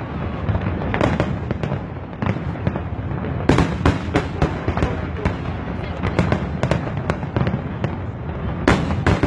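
Fireworks display: a continuous barrage of bangs and crackling over a deep rumble, with heavier bursts about a second in, about a third of the way through and near the end.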